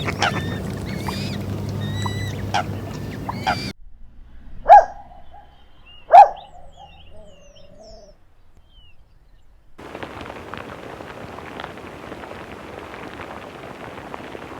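Birds calling: many short chirping calls over a low hum for the first few seconds, then two loud single honk-like calls a second and a half apart. After a gap, a steady hiss with only faint calls runs to the end.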